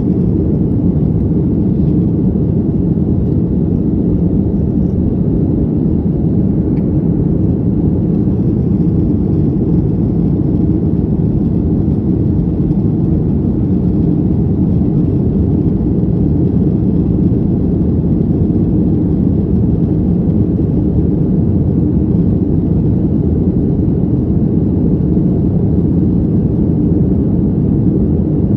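Loud, steady low rumble of a Boeing 737-800's engines and rushing air, heard from inside the passenger cabin, with no change in level.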